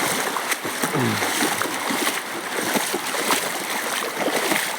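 Running, splashing water, as of a stream, with many small splashes and clicks over a steady wash.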